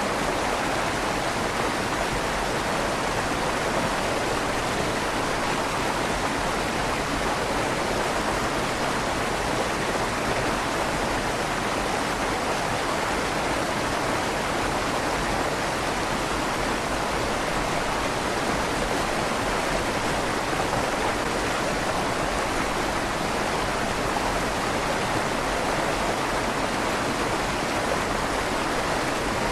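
River water flowing steadily under a stone bridge arch, an even rushing noise with a light echo off the stone.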